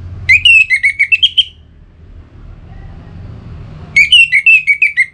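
Orange-headed thrush (anis merah) singing two quick phrases of loud, rapid whistled notes, one near the start and one near the end.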